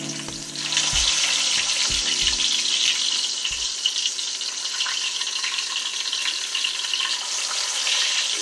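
Dried fish frying in oil in a frying pan: a steady sizzle that gets louder about a second in as the pieces are turned with metal tongs. A few low knocks come in the first four seconds.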